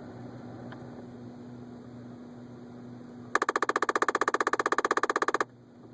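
2011 Ford Focus heater vent mechanism in the dashboard, sticking as the heater is switched off. About three seconds in, a loud, rapid pulsed buzz breaks over the steady hum of the car's heating system, about fifteen pulses a second. It lasts about two seconds and then cuts off abruptly.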